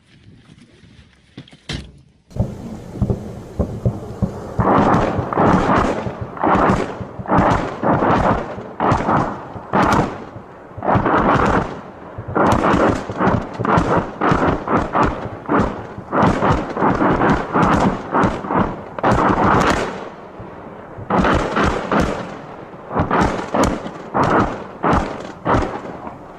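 Salvo from a Grad-type multiple rocket launcher: loud rocket blasts in rapid succession, about two a second, starting about two seconds in and breaking off briefly near the twenty-second mark before going on.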